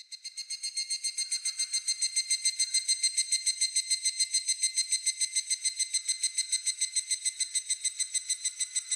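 Higurashi (evening cicada) calling: a high, fast run of pulses, about nine a second, that swells in over the first second or two and then holds steady.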